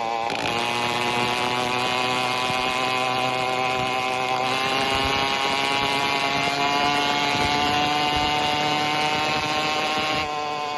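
Phantom 85cc two-stroke motorized-bicycle engine running with no exhaust pipe, under way and pulling. Its pitch climbs steadily as it gains speed, it gets louder about four and a half seconds in, and it eases off near the end.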